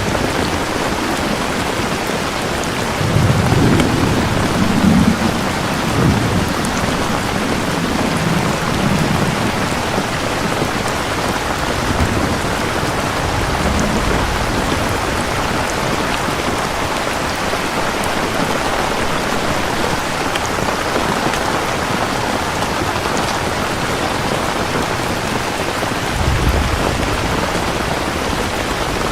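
Steady heavy rain with rolls of thunder: a long low rumble a few seconds in, smaller rumbles after it, and another low rumble near the end.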